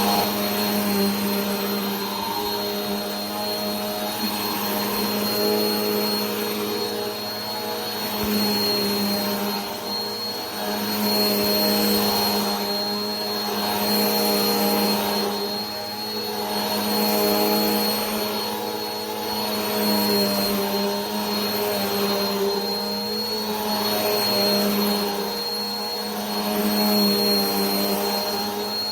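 Vacuum cleaner running continuously: a steady motor hum with a thin high whine and a rush of air. The sound swells and fades about every four seconds.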